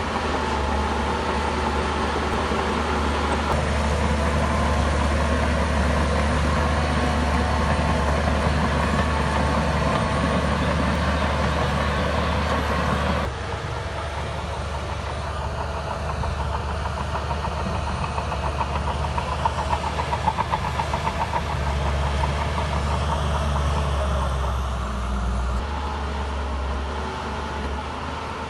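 Shantui bulldozer's diesel engine running under load, with its steel tracks clanking. The sound drops abruptly and becomes quieter about halfway through, and a fast rattling clatter comes through a few seconds later.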